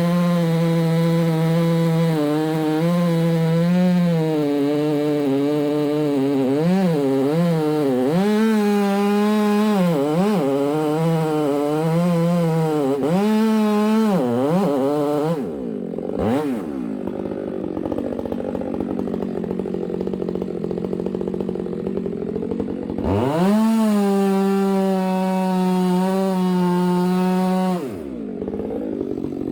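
Gas chainsaw cutting wood at full throttle, its pitch dipping again and again as the chain loads up in the cut. About halfway through it drops back to idle for several seconds. It then revs up again for about five seconds and drops back to idle near the end.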